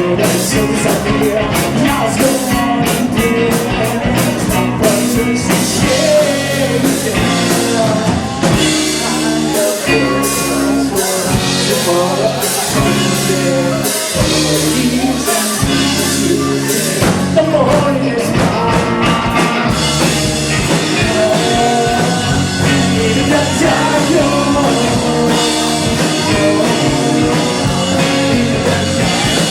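Live rock band playing, with drum kit, guitar and singing.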